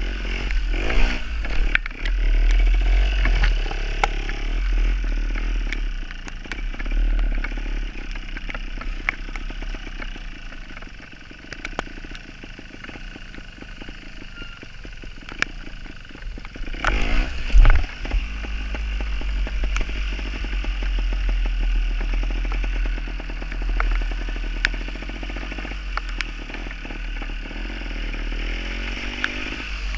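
Gas Gas trials motorcycle's two-stroke engine running while ridden, its revs rising and falling, with frequent clicks and rattles. It revs hard briefly a little past halfway.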